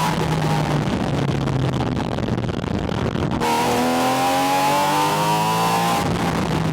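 Porsche 718 Spyder RS's 4.0-litre naturally aspirated flat-six, heard loud from a microphone at the air intake with wind noise. The engine holds a steady note while driving. About three and a half seconds in, it opens up and rises in pitch for a couple of seconds as it accelerates, then drops back to the steady note.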